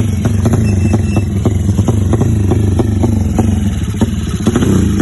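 Newly set-up engine running at a steady speed, with a sharp tick repeating about four to five times a second over its low hum.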